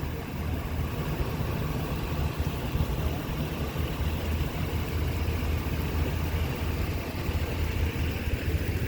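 Motorcycle engine running steadily, a low, even drone with no revving.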